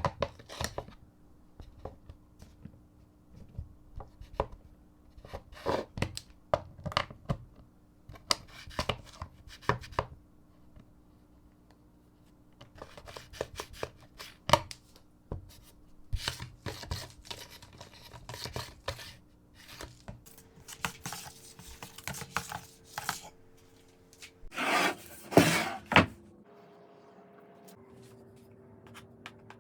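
Hand work on wooden parts at a workbench: irregular taps, clicks and short scrapes as pieces are handled and fitted, with two louder rasping bursts near the end.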